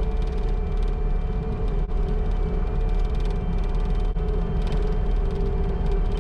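Bobcat T650 compact track loader's diesel engine running steadily, a low rumble with a steady whine over it.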